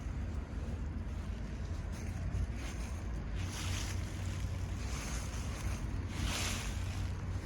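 Wind buffeting the microphone in a steady low rumble, with gusts of hissing noise swelling up three times, the strongest about six seconds in.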